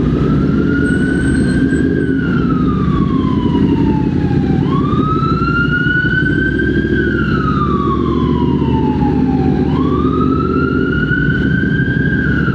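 Emergency vehicle siren in a slow wail, each rise and fall taking about five seconds, heard over the steady low rumble of engine and wind noise from the moving motorcycle.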